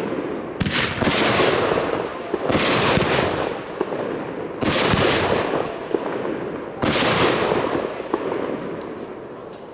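Fireworks going off: four loud bursts about two seconds apart, each trailing off over a second or two, the last one fading away near the end.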